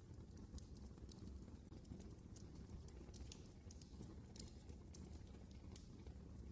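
Wood fire crackling in a fireplace: faint, irregular sharp pops and ticks over a low steady rumble of the burning logs.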